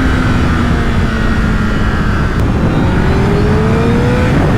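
Honda CBR1000RR Fireblade's 998 cc inline-four through a LeoVince exhaust, ridden at speed: the engine note sinks for the first couple of seconds as the throttle eases, then climbs steadily as the bike accelerates, and drops sharply near the end. Heavy wind noise on the microphone runs underneath.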